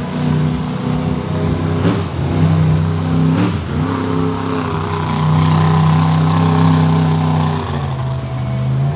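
Monster truck engine running hard under throttle, holding a steady pitch for stretches and shifting up and down a few times. Two brief sharp knocks come about two and three and a half seconds in.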